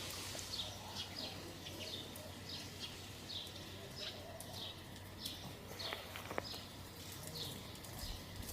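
A bird calling in short, high chirps that slide downward, repeated about twice a second over a steady outdoor background hiss. A few sharp clicks come around six seconds in.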